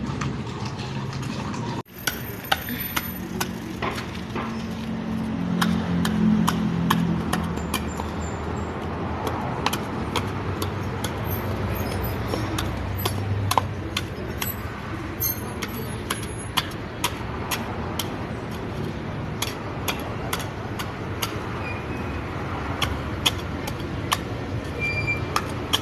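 Many short sharp clicks and knocks at irregular intervals over a steady low rumble.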